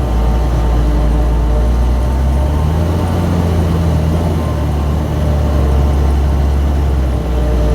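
Heavy farm diesel engines running under load while chopping corn for silage: a loud, steady deep drone whose pitch shifts slightly about three seconds in.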